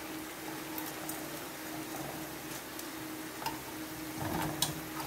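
Sweet potato strips frying in hot oil: a steady sizzle with scattered sharp clicks and crackles, a little louder a bit past four seconds in, over a faint steady hum.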